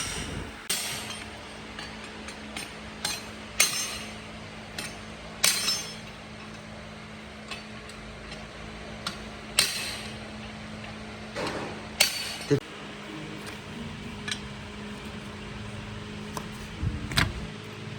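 Metal tools knocking and clinking on metal motorbike parts: about a dozen sharp, irregularly spaced hits, over a steady low hum.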